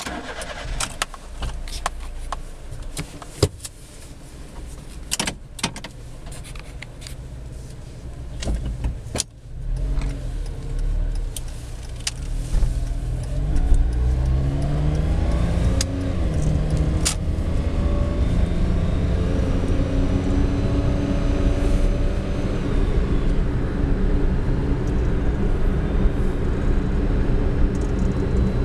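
Honda Life kei car's three-cylinder engine with a Fujitsubo Legalis K aftermarket muffler, heard inside the cabin: it starts and idles, with a few sharp clicks in the first nine seconds, then pulls away and accelerates, its pitch rising several times, and settles into a steady cruise.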